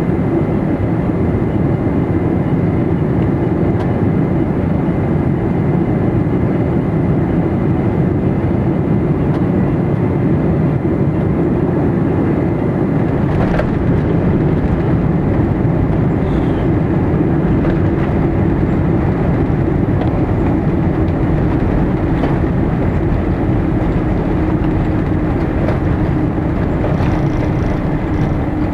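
Boeing 747-400 cabin noise while the aircraft rolls on the ground after landing: a steady rumble with a constant low hum and a faint high whine.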